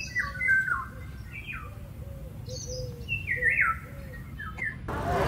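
Birds chirping and calling in short phrases that step down in pitch, over a low background rumble. Near the end the sound cuts suddenly to a louder, steady noise.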